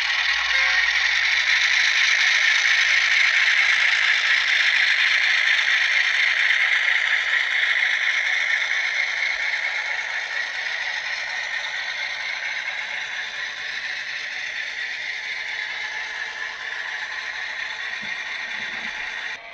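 Model train running along the track with a steady rattling whir that slowly fades, then cuts off abruptly.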